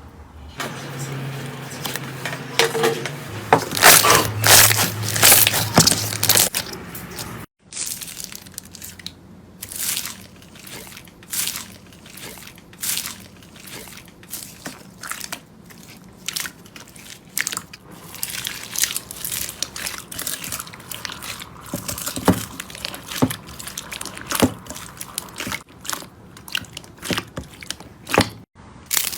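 Slime being squeezed and pressed by hand, making many quick, irregular crackles, pops and squishes. The sound stops for a moment about seven and a half seconds in, then starts again with sharper, sparser pops.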